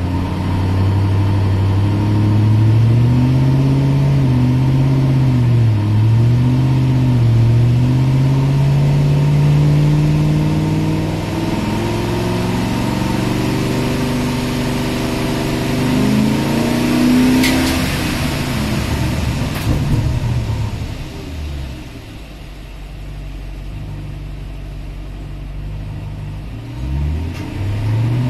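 BMW 740iA's V8 engine pulling hard under acceleration, heard from inside the cabin. Its pitch climbs and then drops back several times as the 5HP24 automatic gearbox upshifts. About three quarters of the way through the engine backs off and goes quieter, then revs up again near the end.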